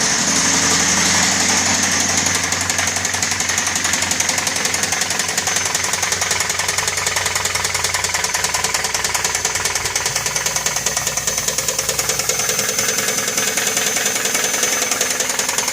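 2019 Ford F-150 engine running with a steady, rhythmic rod knock. The owner puts it down to dust ingested past an unsecured airbox.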